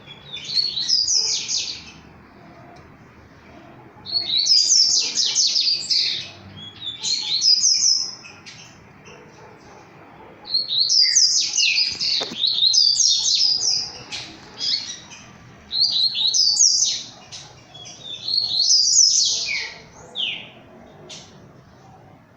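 A pet songbird singing loud, repeated phrases of quick downward-sweeping notes, each phrase one to two seconds long with short pauses between them.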